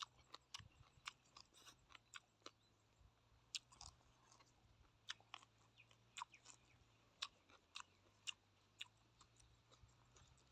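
Faint, irregular soft clicks and smacks of a person chewing a mouthful of seafood salad.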